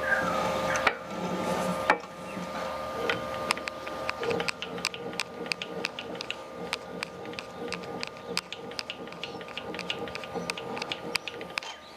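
Rapid, irregular mechanical clicking, several clicks a second, over a faint steady hum. A steady whine cuts off about a second in, with a sharp click there and another a second later.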